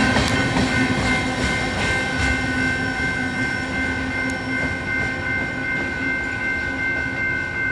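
Covered hopper cars of a freight grain train rolling past, wheels clicking over the rail joints. The sound slowly fades as the end of the train moves away, over a steady high-pitched tone.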